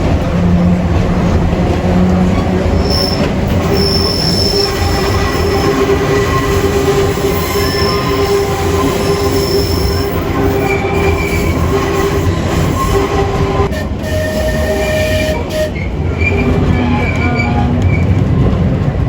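Electric tram running on its rails, heard on board as a steady low rumble, with its wheels squealing in thin high tones that come and go.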